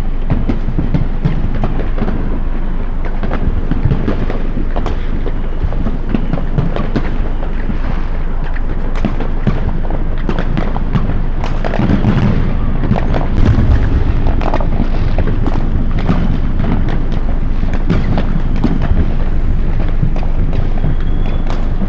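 Dense, continuous barrage of fireworks going off, with overlapping booms and sharp bangs. The low booms are heaviest a little past halfway.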